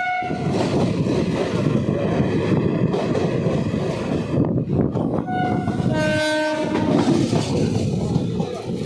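Train running with a loud, steady rumble and clatter. Its horn sounds briefly at the start, again about five seconds in, and then in a longer, fuller blast about six seconds in.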